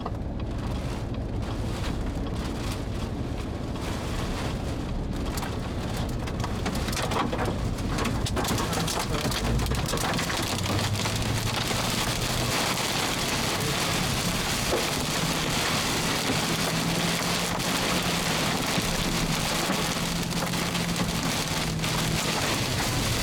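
Heavy wind-driven rain pelting a vehicle, a dense hiss full of small sharp drop impacts that grows heavier about eight seconds in, with a low steady hum underneath from about ten seconds in.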